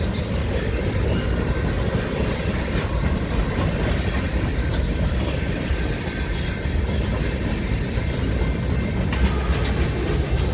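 A train rolling past: a steady, heavy rumble with scattered clicks of wheels over rail joints.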